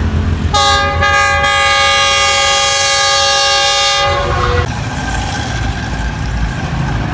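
Locomotive of the Tezgam Express sounding one long horn blast of several tones together, about four seconds long, over the low rumble of the approaching train. The rumble carries on after the horn stops.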